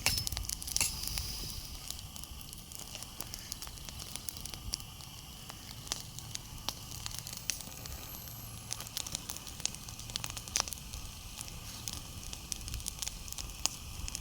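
Wood campfire crackling, with scattered irregular pops and snaps over a low steady rumble.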